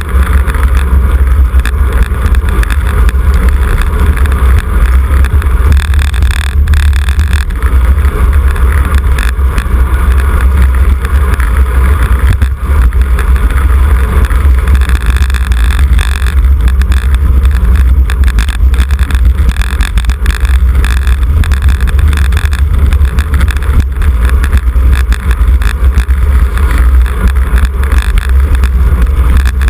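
Steady, loud wind rumble on the microphone of a camera riding along on a racing road bicycle, with the noise of the moving bike beneath it.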